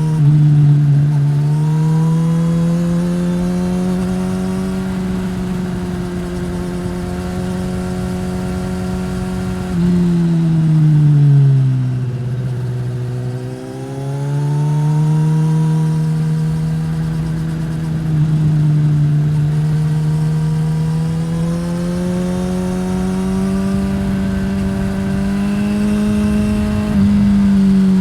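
2015 Suzuki GSX-S1000's inline-four engine through a Yoshimura R-11 slip-on exhaust under way: the revs climb slowly and hold, drop away for a few seconds about ten seconds in, jump sharply back up, then climb again.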